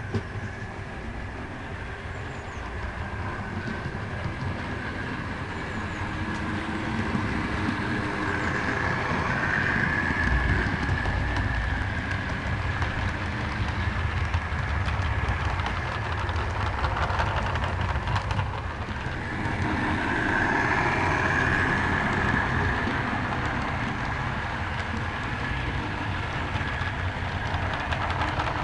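OO gauge model diesel locomotive running on the track: a steady low rumble with a higher whine that swells about a third of the way in and again past two thirds.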